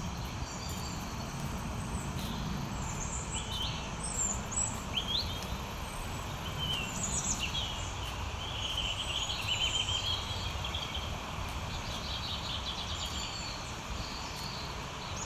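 Several wild birds calling: scattered short chirps and quick rising and falling notes, with a denser run of warbling trills about two-thirds of the way through, over a steady low rumble.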